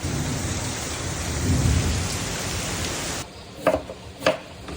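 Heavy rain pouring, with a low rumble of thunder swelling about a second and a half in. The rain cuts off abruptly after about three seconds, and two short sharp knocks follow.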